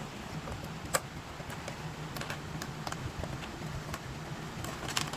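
Irregular small clicks and taps of plastic toy parts being handled, with one sharper click about a second in and a cluster near the end, over a faint steady low hum.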